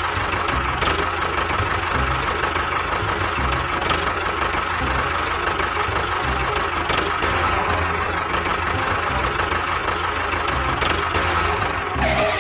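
A small motor running steadily, with a constant whine over an uneven low chugging, from a DIY mini tractor.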